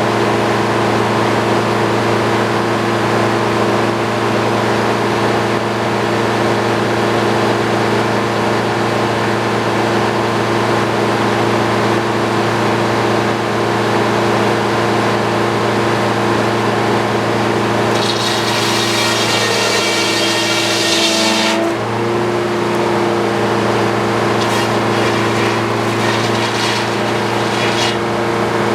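Portable sawmill's engine running steadily under load while the blade cuts white pine. About two-thirds of the way through, a harsh high-pitched scraping rises over it for a few seconds and the engine note sags briefly before recovering, with a few fainter scrapes near the end.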